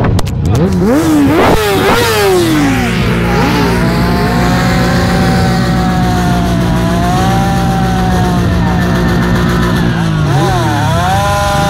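Motorcycle engine revved hard in quick blips, then held at high revs for a stationary burnout, its rear wheel spinning in a cloud of smoke. The revs drop briefly near the end and rise again.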